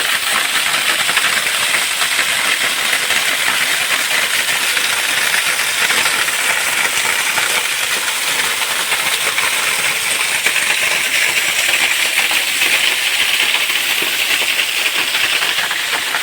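Waterfall of about 15 feet pouring into a rock pool: a loud, steady rushing hiss of falling and splashing water.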